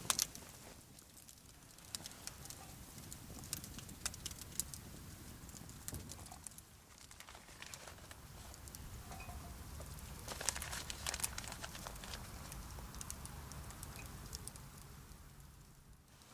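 Campfire crackling, wood snapping with scattered sharp pops over a soft hiss.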